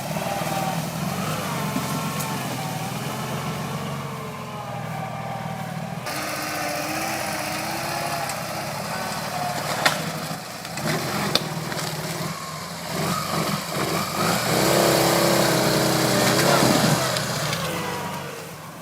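Modified Ural motorcycle's engine running and revving, its pitch rising and falling. It is loudest in a stretch of revving near the end, then fades.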